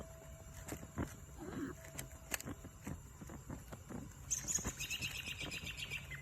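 A bird calling in a rapid, high chattering trill for about two seconds in the second half, over scattered sharp clicks.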